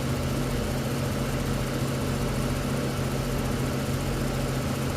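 Goodman air conditioner's outdoor condenser unit running: a steady low hum with an even rush of air from the condenser fan. The unit is running but not removing heat, its discharge air about the same temperature as the outdoor air.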